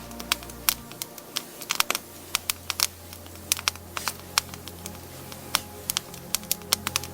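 Wood campfire crackling, with many irregular sharp pops and snaps, over soft background music.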